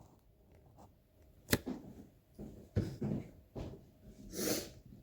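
Handling noises as speaker units are moved about: a sharp click about one and a half seconds in, a few dull knocks, then a brief rustle near the end.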